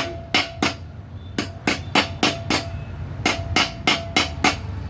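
Hand hammer striking sheet metal for a home-made jet muffler. There are three quick runs of blows, each strike with a short metallic ring.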